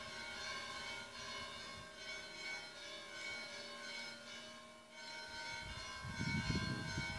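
Bells ringing, their many tones ringing on and overlapping. A brief low rumble rises about six seconds in.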